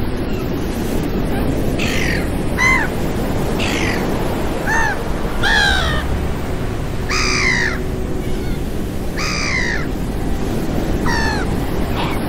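A flock of birds calling over the steady rush of surf: about eight short, downward-sliding cries, spaced irregularly a second or two apart.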